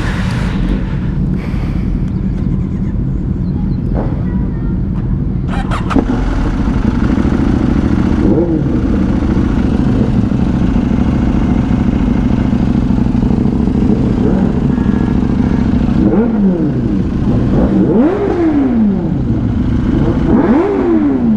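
Superbike engine running steadily at highway speed, with road and wind noise. Several times in the second half the engine note rises and then falls.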